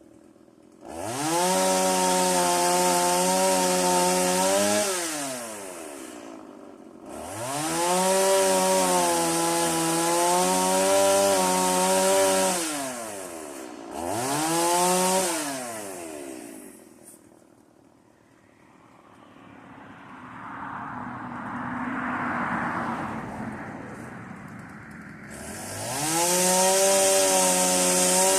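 Stihl chainsaw revved to full throttle four times, each burst rising to a steady high pitch for a few seconds and then dropping back, as it cuts into wood. Between the third and fourth bursts comes a quieter, rougher stretch.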